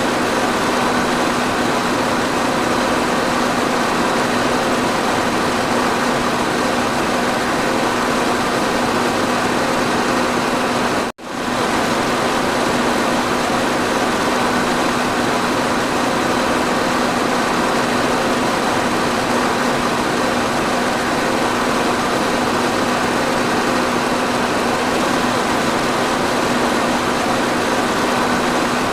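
Electric fan running steadily: an even whirring rush with a constant low hum. The sound drops out for an instant about eleven seconds in, then resumes unchanged.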